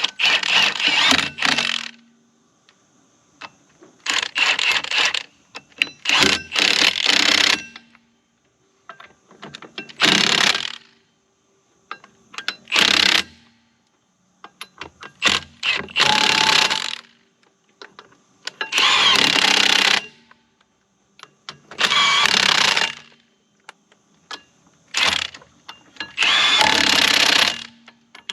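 A power tool run in about ten short bursts of one to two seconds each, with brief clicks and clanks in the pauses between, during track replacement work on a skid steer.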